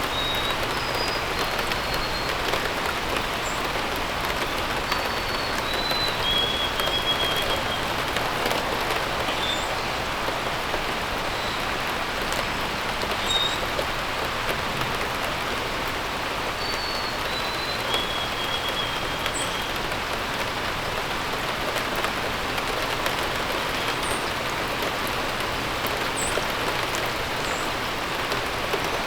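Steady rain falling, a dense even hiss. Birds chirp over it every few seconds with short high notes and a few longer trills.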